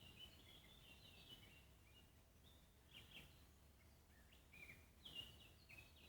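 Faint birdsong: short, high chirps and twittering notes, many sliding downward, coming in scattered clusters over a low steady background rumble.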